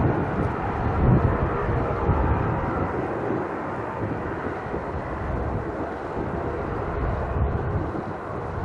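Turboprop airliner's engines and propellers, a steady rushing drone that slowly fades.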